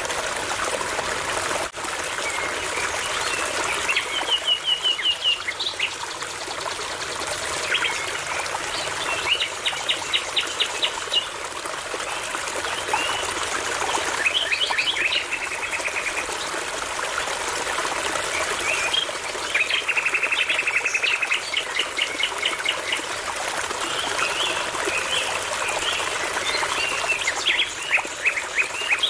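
Nightingale singing in separate phrases of rapid repeated notes, several fast trills with pauses between, over the steady trickle of a small brook.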